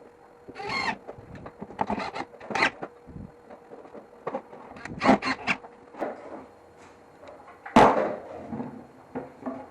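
Wood being worked and handled by hand: short scraping strokes, a quick run of four near the middle, and a sharp knock about eight seconds in, over a faint steady hum.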